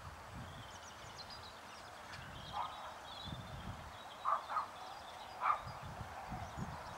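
Birds calling: a few short calls, two in quick succession about four seconds in and another a second later, over faint high twittering and an uneven low rumble.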